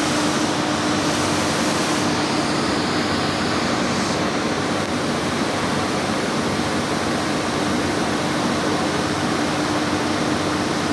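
Loud, steady rushing roar of flash-flood water, with a steady low hum running underneath.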